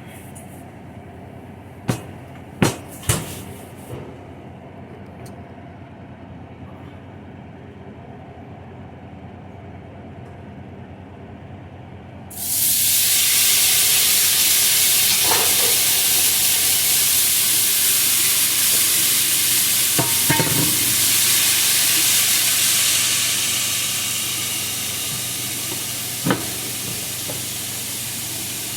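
A steady low hum with a few sharp clicks, then about twelve seconds in, food or liquid goes into a hot pan and starts sizzling loudly, an even hiss that eases off slightly near the end.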